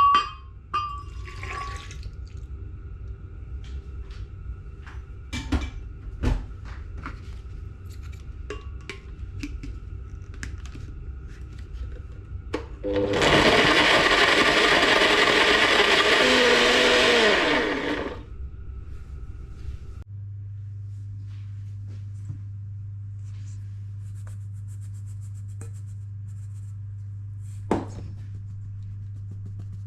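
Scattered clicks and knocks, then a small electric kitchen appliance motor runs loudly for about five seconds, its pitch sagging slightly as it stops. Afterwards there is a steady low hum, with one sharp click near the end.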